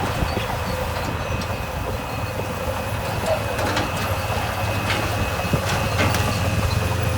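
Heavy diesel earthmoving machine running steadily, with scattered clanks and knocks over the engine and a faint steady whine.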